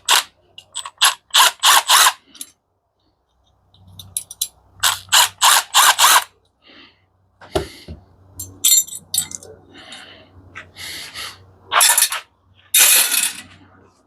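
Metal parts of an industrial coffee machine clinking and clanking as they are worked loose by hand: quick groups of sharp clicks at the start and about five seconds in, then longer scraping rattles near the end.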